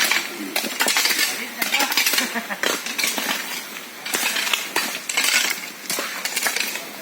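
Metal hand tools scraping and clinking against stones and gravel in irregular strokes, with sharp clinks among them.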